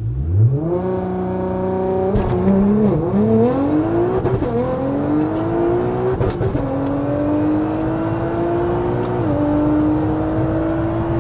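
Nissan GT-R's twin-turbo V6, tuned to about 800 hp, heard from inside the cabin launching hard from a standstill and accelerating flat out. The engine note climbs steadily through each gear and drops briefly at each quick upshift, about every two seconds.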